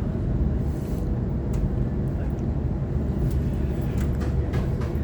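Inside a Waratah electric multiple unit train car: a steady low rumble of the train running on the track, with a faint steady hum and scattered light clicks and rattles.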